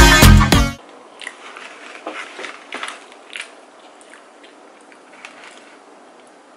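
Background music with drum hits cuts off suddenly under a second in. Then faint chewing and mouth clicks come from someone eating a doughnut, fading out after about three and a half seconds.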